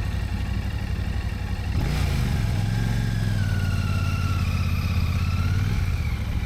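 Motorcycle engines running; about two seconds in, a louder motorcycle engine comes in with a shifting, rising note for about four seconds, then drops back to the steady idle underneath.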